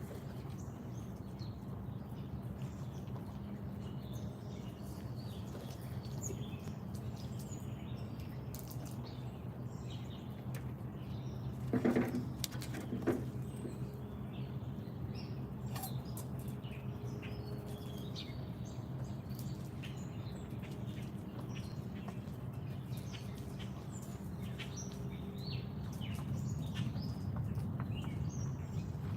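Small birds chirping in short, scattered calls over a steady low hum, with two louder sounds about a second apart a little before halfway through.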